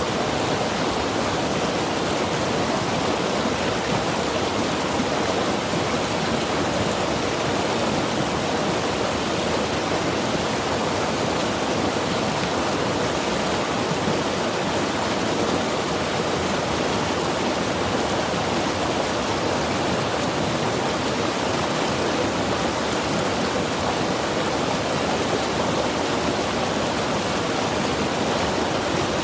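Mountain river rushing steadily over rocks, a constant even water roar with no breaks.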